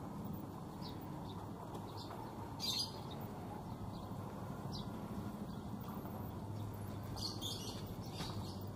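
A steady low background hum with a few short, high bird chirps scattered through it, the loudest nearly three seconds in.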